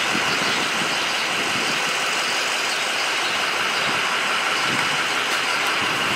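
Steady running noise of a motor vehicle, a constant hiss with no distinct events.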